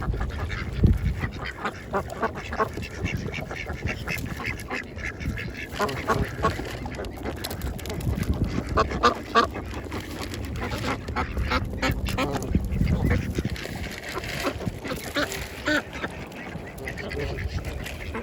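A flock of ducks quacking, many short calls overlapping, with some honking calls among them.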